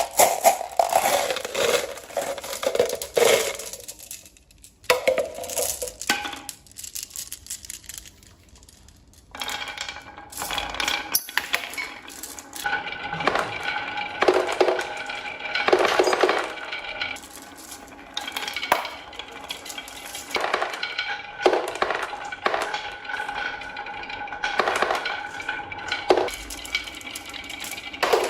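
Small hard objects clicking and clinking against each other in irregular knocks. About a third of the way in, a steady high hum with several even tones joins, and the knocks continue over it.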